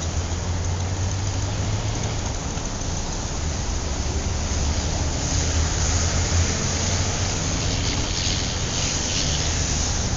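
A steady rushing noise with a low rumble underneath, like rain or wind.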